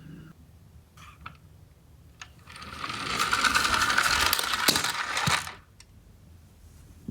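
A toy minicar running down a slope, its small wheels clattering and rattling quickly for about three seconds, after a few light clicks.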